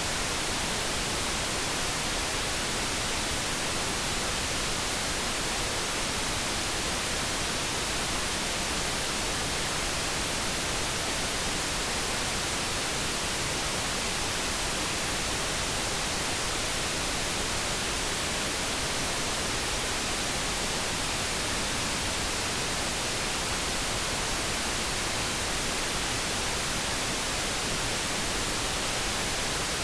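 Steady generated noise: an even, unbroken hiss with no tones or changes.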